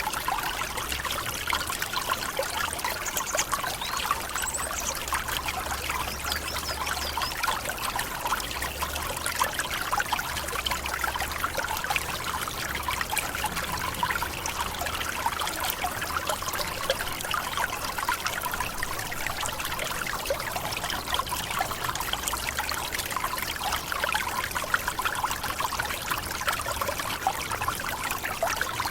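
Waterfall in a tropical forest: water falling and splashing steadily, with a bright splashing and trickling character.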